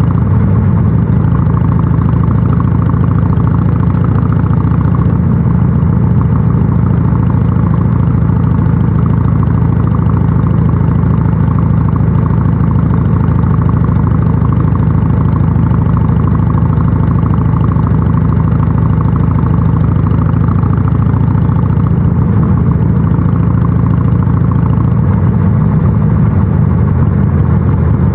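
Harley-Davidson Sportster 883 SuperLow's air-cooled V-twin running steadily through a North American-spec muffler, with a deep, even exhaust note.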